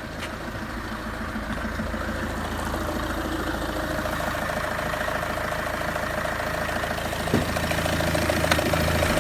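Peugeot 307's 2.0 HDi DW10ATED four-cylinder turbodiesel idling steadily, an engine that starts well and runs without steaming or smoking.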